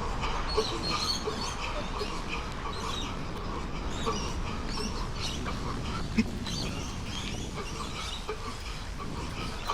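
A runner's heavy, wheezing breathing mid-run.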